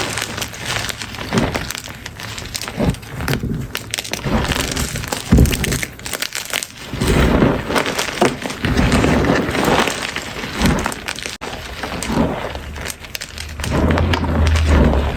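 Chalk being crushed: a dense, irregular run of crunches and cracks as pieces break and crumble.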